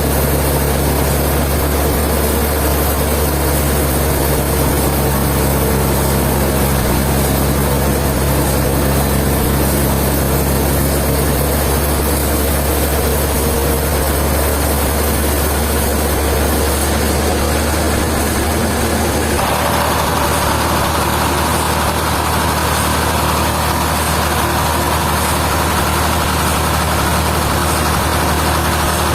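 Heavy machinery engine running steadily with a low drone; about two-thirds of the way through, its tone shifts and a mid-pitched hum comes in.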